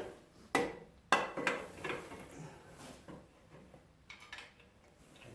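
Metal tools and parts clanking and clinking while bolting on the engine and CVT: two sharp clanks in the first second or so, a few smaller knocks after them, then lighter clinks a little past four seconds.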